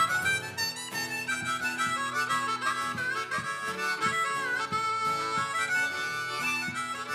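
Live Americana band playing an instrumental break: a held lead line with bending notes over strummed acoustic guitars.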